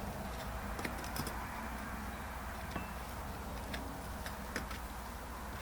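Scattered light clicks and scrapes of a screwdriver tip picking and breaking up burnt-out rubber ash in a metal part of a Coleman 502 stove, at an irregular pace over a low steady hum.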